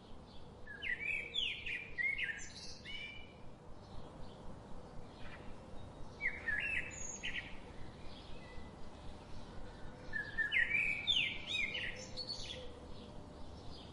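Songbirds singing. A bird repeats a short phrase of quick rising notes three times, with quieter chirps from other birds between the phrases.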